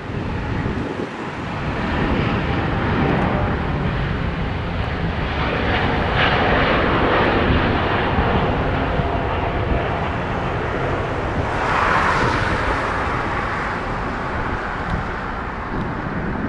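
Jet engine noise of a Finnair Airbus A350-900 with Rolls-Royce Trent XWB engines on departure: a steady, loud jet noise that swells about six seconds in and again about twelve seconds in, with wind rumble on the microphone underneath.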